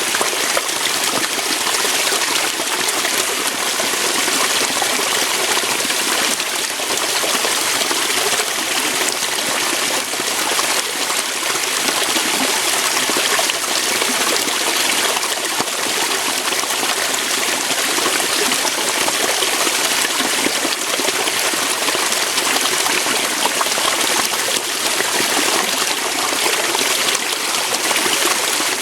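Water flowing and splashing over rocks in a small waterfall or stream, a steady hiss with no change.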